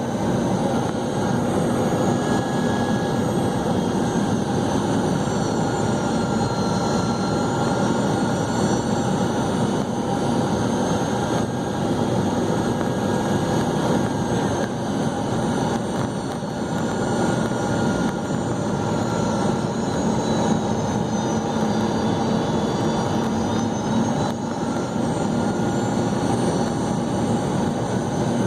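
Steady jet cabin roar inside a Boeing 717-200, from its rear-mounted Rolls-Royce BR715 turbofans, on approach. Thin engine whines drift slowly up and down in pitch as thrust is adjusted.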